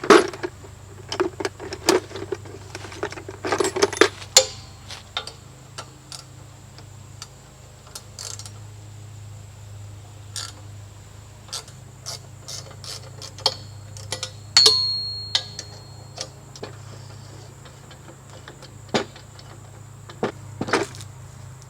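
Scattered clicks, knocks and light metallic clinks of things being handled, busiest in the first few seconds. A short, high metallic ping rings out about two-thirds of the way through, over a steady low hum.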